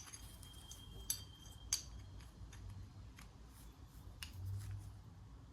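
A few light metallic clicks and clinks as a small engine's connecting rod and piston are handled and fitted together, with softer ticks between them.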